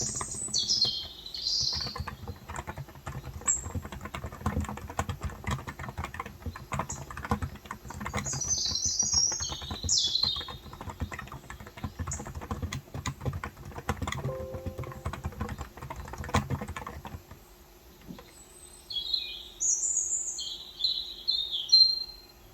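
Typing on a Cox Endeavor electro-capacitive (topre-style) tenkeyless keyboard with 35 g switches, a steady run of soft key strokes that stops about seventeen seconds in. Birds chirp at the start, around the middle and again near the end.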